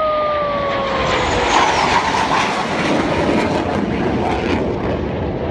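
Apache attack helicopter flying past during a display, a loud, steady rush of engine and rotor noise. A whine falls slowly in pitch over the first second and a half.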